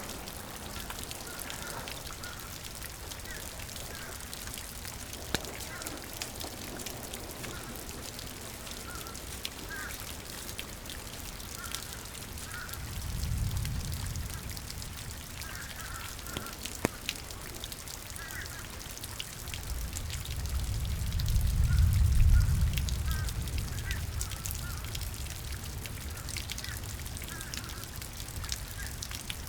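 Steady rain with birds calling in short, repeated notes. Two low rumbles swell and fade, one about halfway through and a louder, longer one about three quarters of the way in.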